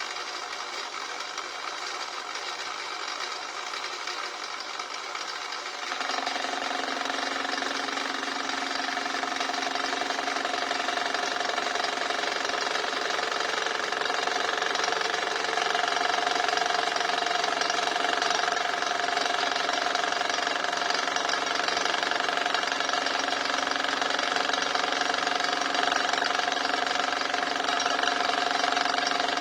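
A small hobby machine tool runs steadily, metal-cutting work under way. About six seconds in it steps up louder, with a steady high whine over a lower hum, and it keeps rising slowly.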